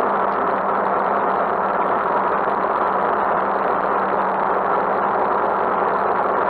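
Motorcycle engine running at a steady pitch, picked up by a handlebar-mounted camera, under a constant hiss.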